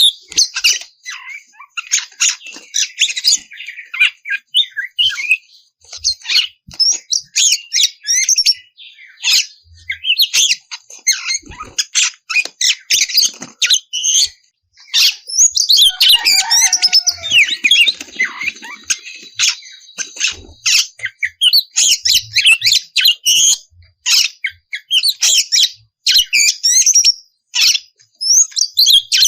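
Oriental magpie-robin (kacer) in full, loud song: a fast, continuous run of sharp chirps and whistles, with a short pause about halfway and some lower, falling whistles a little after it.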